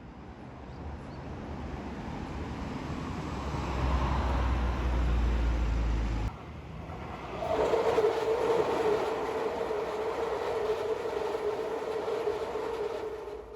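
A train passing with a heavy rumble that builds and then cuts off abruptly. After the cut comes a second stretch of train noise with a steady whine.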